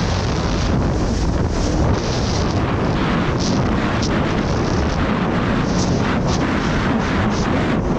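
Wind buffeting the microphone of a camera on a jet ski at speed, over the jet ski's engine. The noise is loud and steady.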